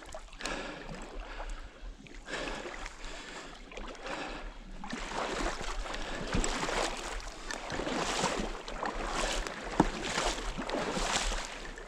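Irregular splashing and sloshing of someone wading through shallow water, growing busier about halfway through.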